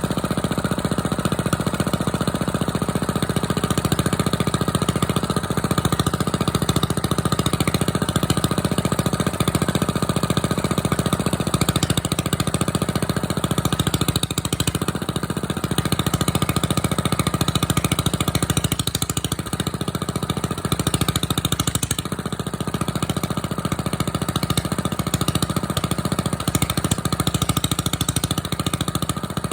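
Small diesel engine running steadily, warming up a few minutes after a cold start.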